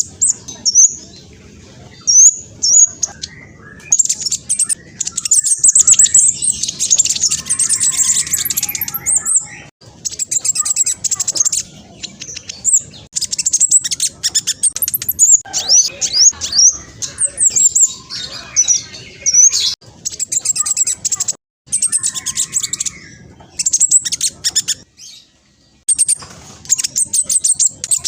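Black sunbird singing a fast, very high-pitched song of rapid chirps and trills, in bursts of a few seconds separated by short pauses.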